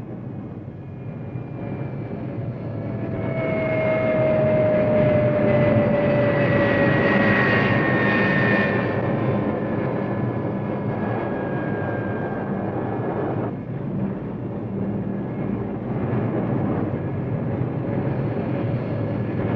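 Jet engines of F-4B Phantoms running on the airfield: a steady roar that swells over the first few seconds, with a high whine sliding down in pitch, then carries on more evenly.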